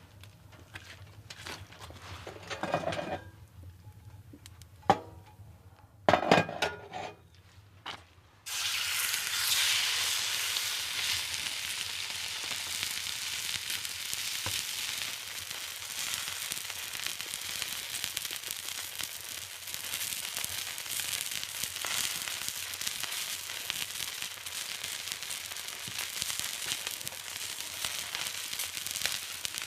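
A few knocks and clatters of handling, then about eight seconds in a sudden loud sizzling starts and goes on steadily: food frying in a hot pan.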